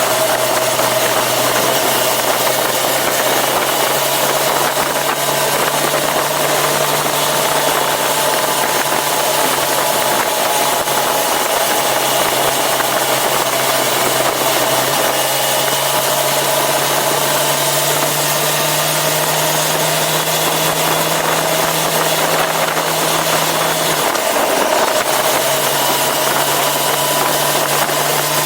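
Yamaha FZ6R's inline-four engine running steadily on the move, over a broad rush of wind and road noise. The engine note steps up slightly a couple of times, drops away briefly near the end, then picks up again.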